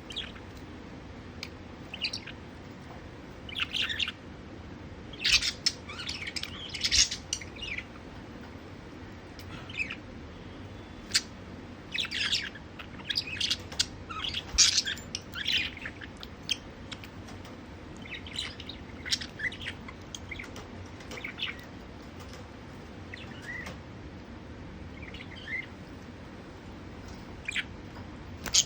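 Budgerigars chirping and chattering in short, high-pitched calls that come in scattered clusters, busiest around the middle, over a faint steady low hum.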